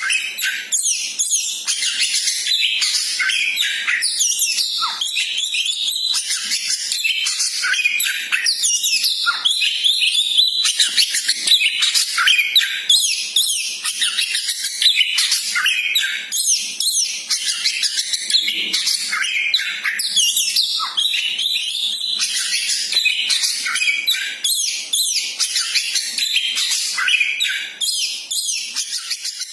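A koci songbird singing in a dense, unbroken stream of fast, high-pitched chirps and trills.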